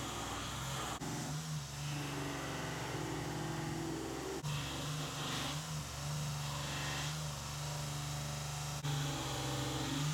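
Belt sander running steadily while a block of wood is sanded on it. The motor hum holds throughout, and a higher sanding hiss swells and fades as the wood is pressed on and eased off the belt.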